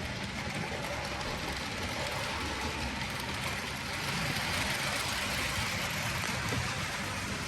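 Bachmann 2-8-0 model steam locomotive running around the track at about half throttle: a steady running noise of its motor and wheels on the rails, a little louder from about four seconds in.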